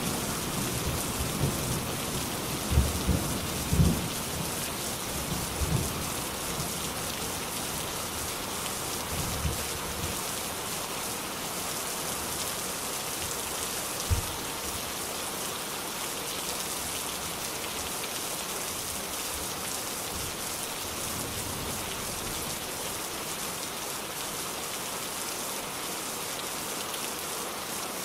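Steady rain, an even hiss throughout, with low thunder rumbles that die away over the first several seconds and one brief low thud about halfway through.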